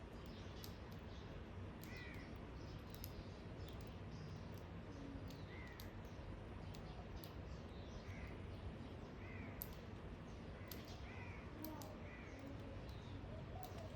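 Birds calling faintly: short notes that rise and fall, about one every second or two, over a steady low background rumble.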